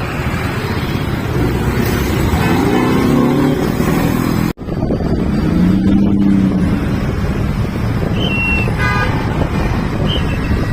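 Road traffic: vehicle engines running steadily, with short horn toots near the end. A brief cut in the sound a little before halfway.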